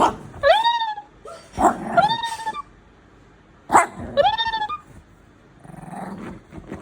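Shih Tzu barking: three short, high-pitched yips, each rising then holding its pitch.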